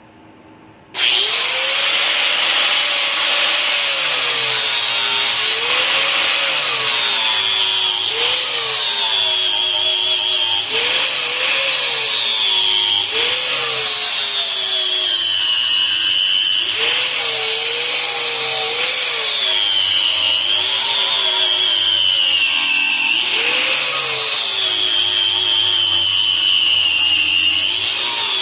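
Handheld electric grinder starts up about a second in and works steadily on metal, its motor pitch sagging and recovering every couple of seconds as it is pressed into the work and eased off.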